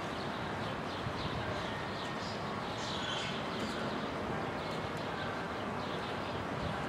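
Small birds chirping repeatedly in short, quick notes over a steady outdoor city background hum.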